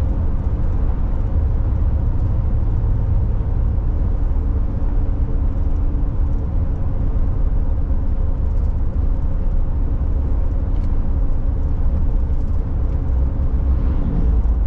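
Steady road and engine noise of a car driving, heard from inside the cabin: a constant low rumble with a faint, even hum above it.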